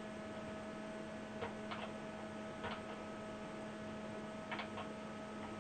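Steady electrical mains hum with a few faint, short clicks scattered through it.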